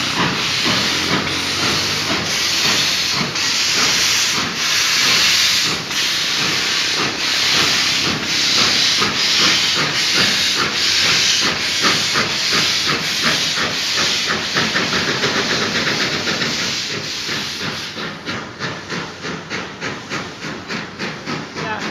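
Steam locomotive chuffing as it pulls away, its exhaust beats starting about one a second and quickening to about three a second as the train gathers speed. The sound grows fainter over the last few seconds.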